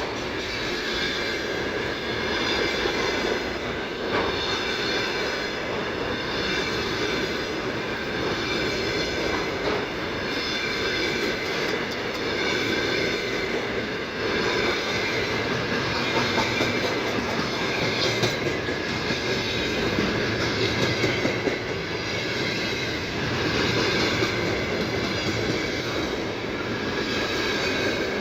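Freight train wagons rolling steadily past on the rails: a continuous rumble of wheels on track.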